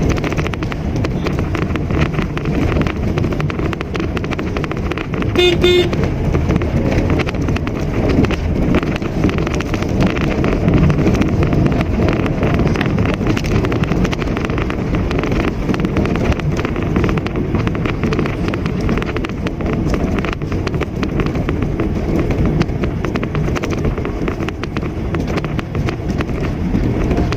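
Mitsubishi Mirage hatchback driving, a steady rumble of engine and road noise, with a short horn toot about five and a half seconds in.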